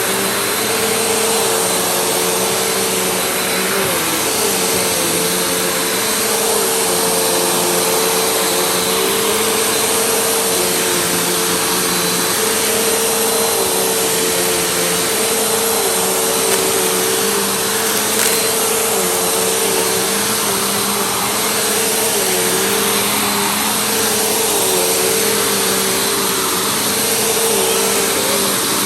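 Vacuum cleaner running steadily, its motor whine holding one pitch over a dense rushing of air, with a slight dip in pitch every couple of seconds.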